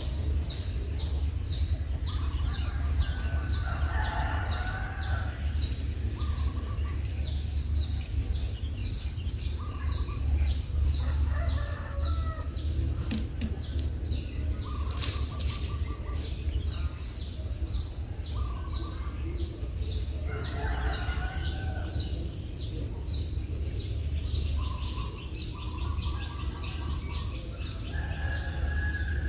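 Bird calls: a steady string of short high chirps, about two to three a second, with bursts of lower calls every few seconds, over a low steady rumble.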